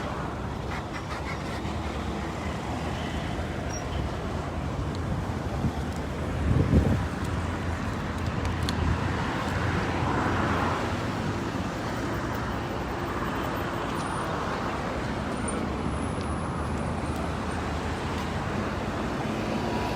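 Road traffic running steadily, with a louder low rumble of a vehicle passing about a third of the way in.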